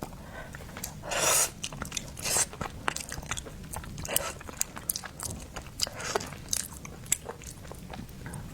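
Close-miked eating sounds: a person chewing seafood, with wet mouth clicks and four louder short noisy bites or slurps.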